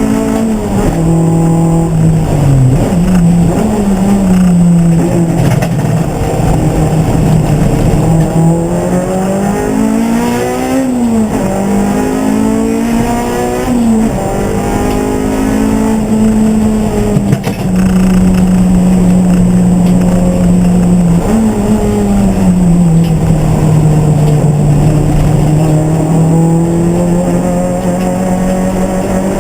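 A race car engine running hard and continuously, its pitch climbing and dropping repeatedly through gear changes and corners, with longer steady stretches near the end.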